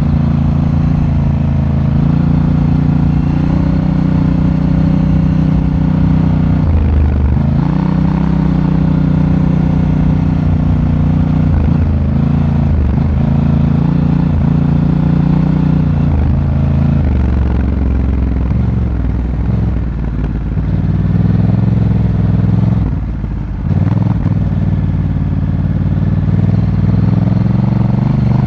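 Honda Africa Twin's parallel-twin engine running under way, heard from on board the motorcycle. Its pitch dips and recovers about seven seconds in and several times later, and the throttle comes off briefly near the end.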